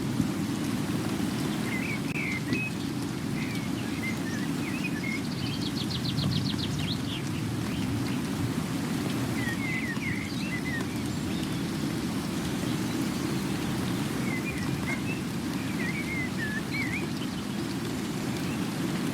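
Steady rain with a low, even rush, and birds chirping over it now and then, with a short fast trill about six seconds in.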